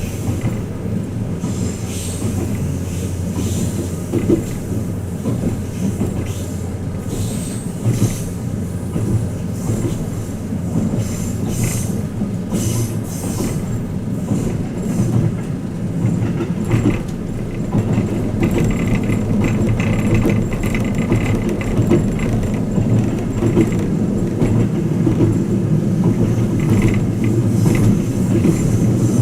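Twilight Express Mizukaze (87 series) luxury train heard from inside a passenger cabin while running: a steady low rumble of the wheels on the rails, with frequent rail clicks. A thin, high squeal joins in a little past midway for several seconds.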